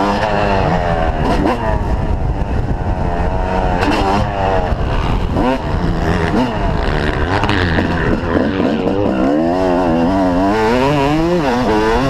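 Motocross bike engines revving hard, their pitch rising and falling over and over as the riders throttle on and off around the track.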